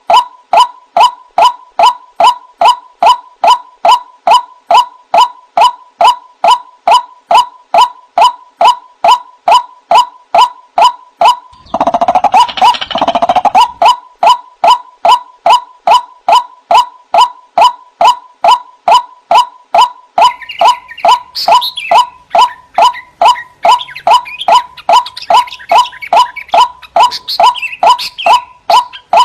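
White-breasted waterhen giving its repeated 'kru-ak' call in a fast, evenly spaced series. A denser tangle of calls comes about twelve seconds in, and higher chattering calls join the series from about twenty seconds on.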